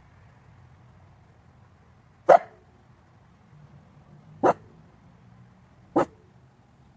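A dog barking three times, single sharp barks about two seconds apart.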